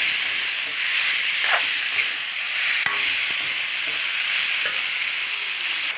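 Chicken pieces frying in oil and spices in a pan, a steady sizzle while being stirred, with a sharp click about halfway through.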